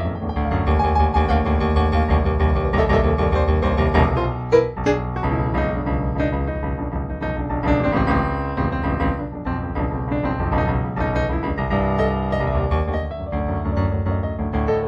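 Background solo piano music, a steady flow of ringing notes and chords.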